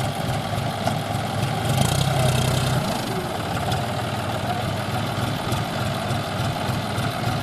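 Farm tractor diesel engine running at low revs, with a brief louder spell about two seconds in.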